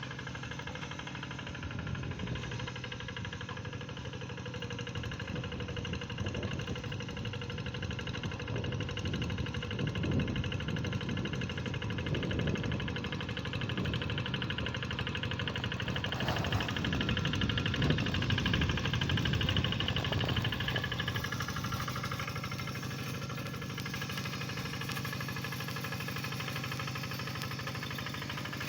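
Tractor engine running steadily, growing louder for a while in the middle and then easing back.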